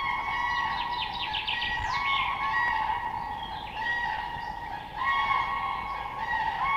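Animal calls: several long, steady, overlapping pitched calls, with a quick run of short chirps about two seconds in.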